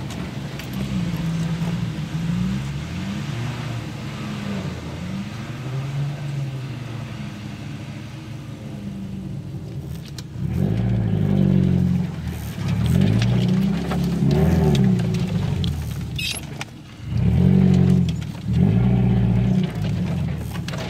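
Car engine revving up and down repeatedly while driving off-road through brush and mud, with louder surges of revving in the second half.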